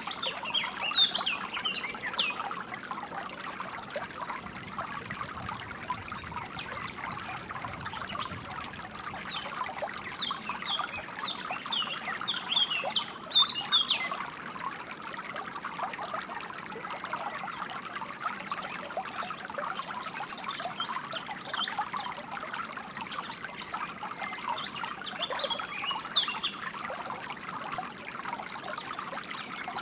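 A small stream trickling and splashing steadily, with songbirds chirping over it in bursts, the busiest stretch about halfway through.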